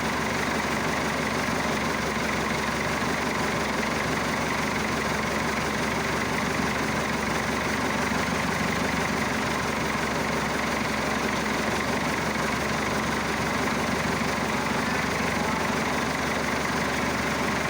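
Massey Ferguson Super 90 tractor's Perkins diesel engine idling steadily.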